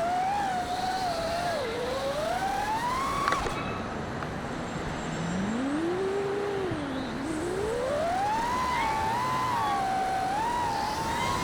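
Brushless motors and propellers of a 5-inch FPV freestyle quadcopter (T-Motor Pacer 2306 1750kv), whining and sliding up and down in pitch with the throttle over a steady rushing hiss. The whine drops low about halfway through, then climbs back and holds high near the end.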